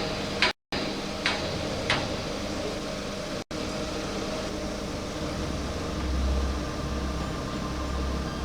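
Bogie-exchange machinery in a railway yard: a couple of sharp metallic clanks in the first two seconds, then a steady mechanical hum with a low pulsing rumble that grows from about six seconds in.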